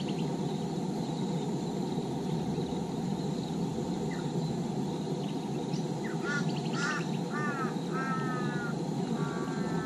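A steady low rushing noise, with a bird giving a run of about six harsh calls from about six seconds in, the later calls longer and flatter than the first.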